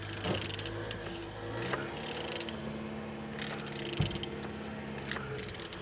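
Renault K9K four-cylinder diesel engine being turned over by hand, its internals making intermittent mechanical clicking and scraping, with a single knock about four seconds in. It turns freely: the engine is not seized.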